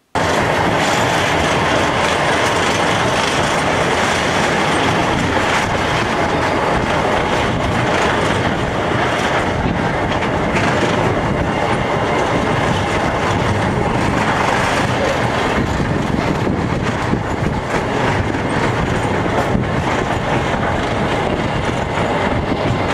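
Snowdon Mountain Railway train heard from on board, running along its rack-and-pinion track: a steady loud running noise with frequent small irregular clicks.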